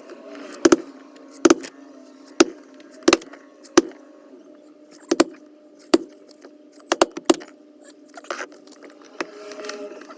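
Hand tools clinking and tapping on metal engine parts: about ten sharp, irregularly spaced clicks, with a quick cluster of three near seven seconds in, over a steady low hum.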